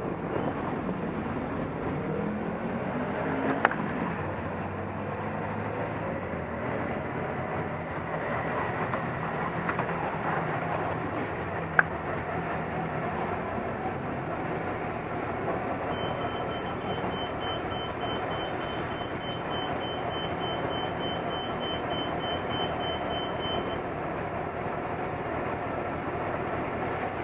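Motorcycle engines and traffic running steadily, with an engine note rising and falling in the first few seconds. Midway, a high beep repeats about three times a second for roughly seven seconds.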